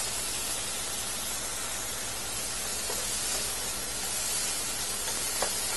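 Chopped onions, bell peppers and scotch bonnet pepper sizzling steadily in hot oil in a pan.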